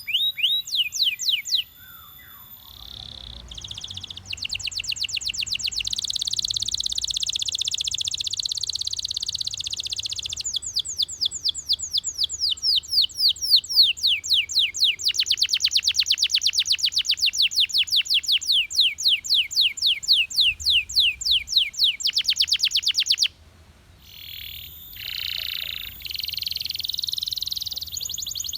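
Belgian canary singing a long song of rolling trills. A fast, dense roll gives way to slower runs of separate sweeping notes. The song breaks off suddenly, then resumes with short buzzy phrases.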